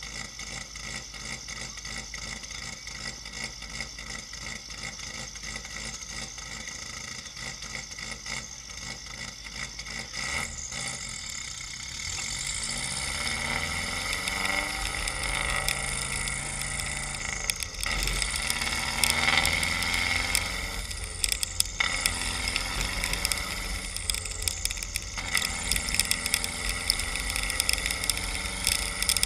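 Anti-lag-tuned Subaru WRX turbocharged flat-four (Carberry ROM with rotational idle) idling steadily, then revved hard in several climbs and falls with the car standing still. Sharp pops and cracks from the anti-lag come in the last few seconds.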